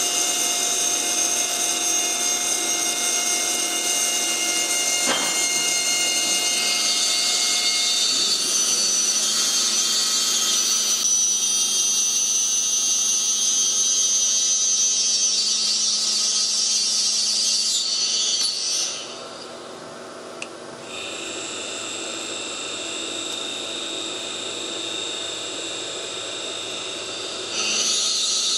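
CNC router spindle running with a steady high whine of several tones while milling a wooden ring insert. About two-thirds of the way through it drops sharply and is much quieter for a couple of seconds, comes back at a lower level, then returns to full strength near the end.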